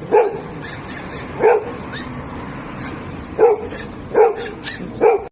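A dog barking: five short barks at uneven intervals.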